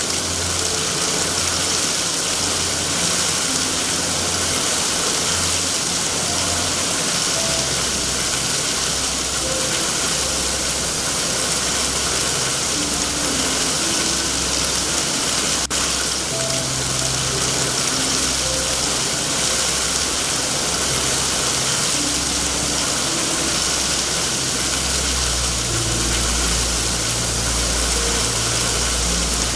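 Steady rain, a dense even hiss, with a low rumble underneath that comes and goes, stronger after the first few seconds and near the end.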